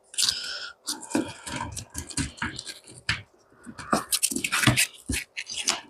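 A quick run of irregular knocks, clicks and scraping from motorcycle saddlebag brackets being handled and pushed into place, with a sharp noisy burst right at the start.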